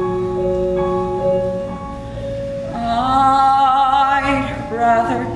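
Show-tune performance: sustained instrumental accompaniment, then about three seconds in a singer comes in on a long held note sung with vibrato.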